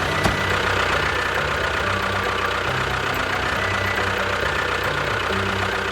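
An engine running steadily at an even speed, with a single click about a quarter second in.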